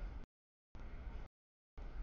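Low rumble of a passing CSX double-stack container freight train. It comes in short stretches broken by complete audio dropouts: it cuts out about a quarter second in, returns for about half a second, then cuts out again and comes back near the end.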